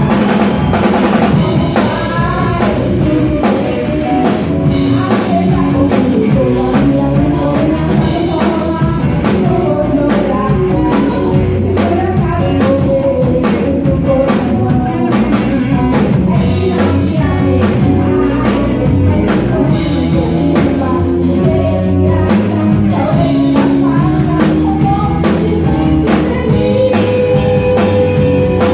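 Live rock band playing a song with drum kit, guitar and a singer, loud and steady.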